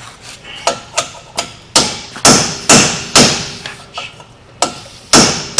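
A heavy hammer strikes steel about ten times in quick succession, each blow ringing briefly, and the blows grow heavier from about two seconds in. The blows are aimed at a seized wheel hub bearing assembly that will not budge.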